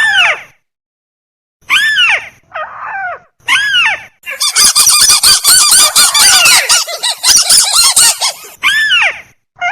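Crake ('tikusan') calls played as a bird-lure recording: harsh, arched call notes about once a second, then a dense run of rapid, overlapping calls from about four seconds in until near the end, when single calls return.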